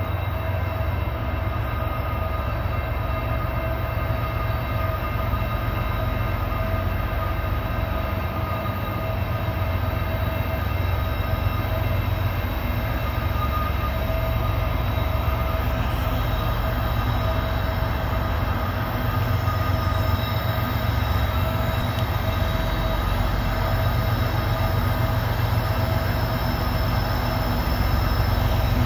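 Diesel locomotives of a CSX coal train approaching, a steady deep rumble that grows slightly louder, with a faint steady whine above it.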